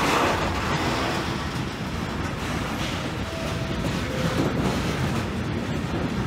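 Freight train of covered hopper wagons rolling past, a steady rumble of steel wheels on the rails.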